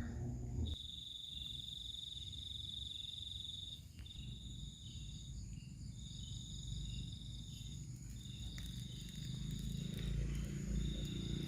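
Insect trilling at a high, steady pitch in about five long bursts of one to three seconds each, over a low rumble that grows louder near the end.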